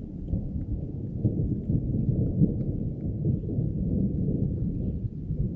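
Continuous low rumble of thunder from a passing storm, all deep tones with no sharp crack.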